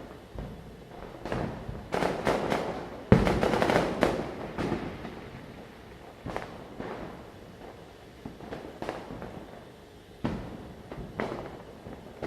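Firecrackers bursting: scattered sharp bangs and pops, with the loudest bang about three seconds in followed by a second or so of dense crackling, then single pops.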